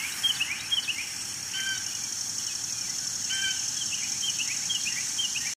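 Birds chirping outdoors: runs of short, quick falling chirps and a couple of brief two-note whistles, over a steady high-pitched hum. The sound cuts off suddenly near the end.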